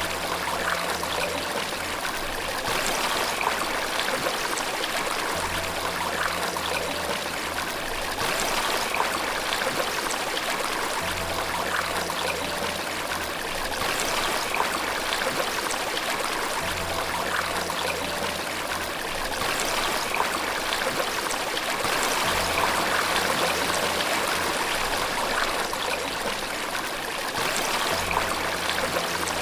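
Water running steadily like a stream or small waterfall. Faint low notes of background music sound under it, coming back about every five or six seconds.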